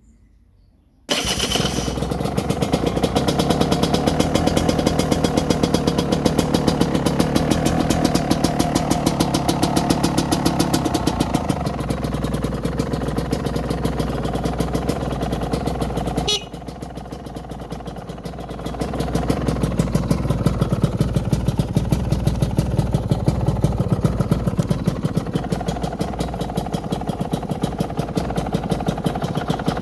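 Gas Gas 200cc two-stroke enduro engine starting on its electric starter about a second in, catching at once and running with a fast, even firing beat. About halfway through it drops suddenly to a quieter run for a few seconds, then picks up again and keeps running.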